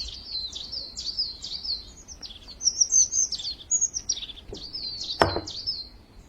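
Small birds chirping in a quick, continuous run of short high notes, with a single sharp knock about five seconds in.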